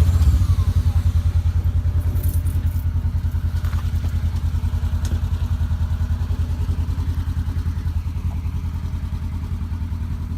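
Polaris RZR 900's twin-cylinder engine catching and then idling in a steady, evenly pulsing beat, loudest just after it fires and settling slightly as it runs.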